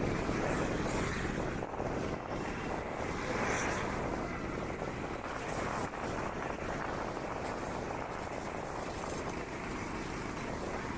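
Steady rushing noise without distinct events.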